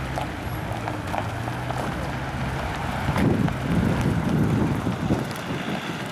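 A vehicle engine running steadily at low revs, fading out about five seconds in. Wind buffets the microphone, swelling into a rumbling gust between about three and five seconds in.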